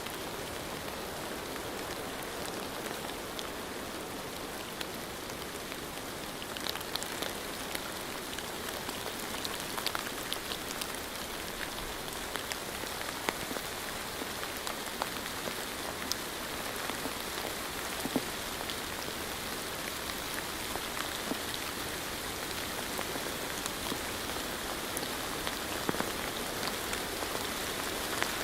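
Steady rain falling, a constant hiss with individual drops ticking and pattering on a hard surface close by.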